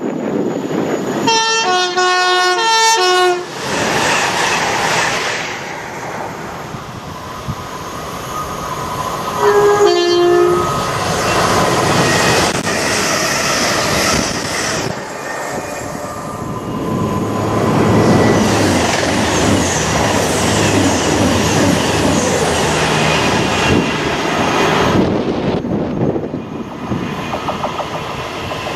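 Class 350 Desiro electric multiple unit sounding its two-tone horn, high and low notes alternating for about two seconds, then a shorter horn about ten seconds in. It then runs through the station close by with a long, loud rush of wheels on rail and clickety-clack that dies away near the end.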